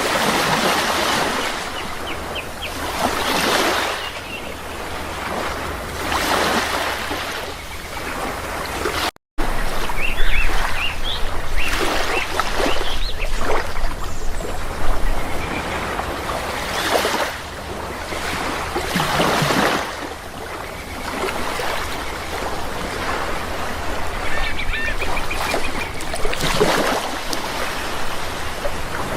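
Sea waves surging and washing in every few seconds, with short bird calls over them. The sound cuts out for a split second about nine seconds in.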